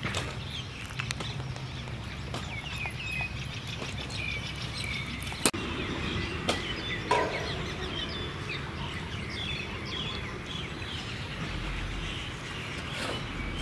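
Small birds chirping repeatedly over a steady low background hum, with scattered clicks and one sharp tap about five and a half seconds in.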